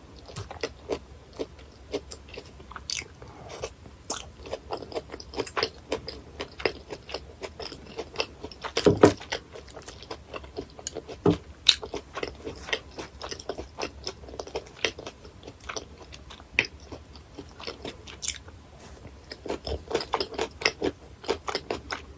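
Close-miked chewing and biting of raw gizzard shad sashimi: many short clicks throughout, with a louder cluster about nine seconds in.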